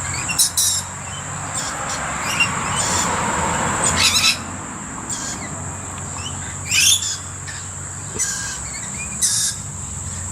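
Mixed garden birds calling (rainbow lorikeets, blue-faced honeyeaters and noisy miners) with short, shrill screeches and chirps every second or so, the loudest about four and seven seconds in, over a steady high-pitched whine.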